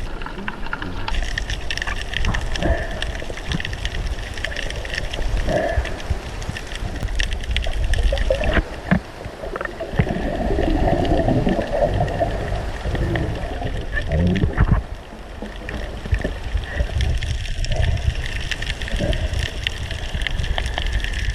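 Underwater ambience recorded on the dive: a continuous low rumble of water with irregular bubbling and gurgling swells.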